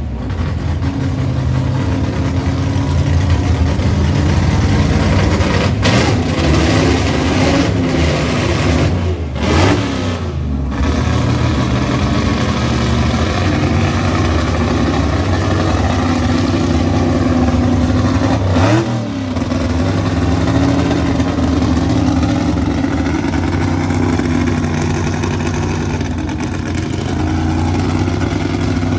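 A car engine running loudly and steadily, with its pitch dipping and rising briefly about ten and nineteen seconds in.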